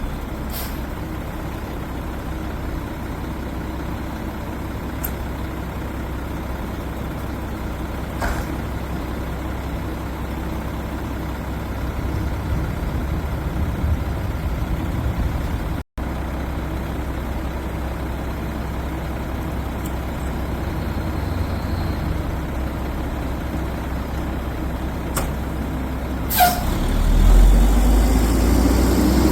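Garbage truck engine running steadily with a low rumble. Near the end, a sharp air-brake hiss, then the engine gets louder.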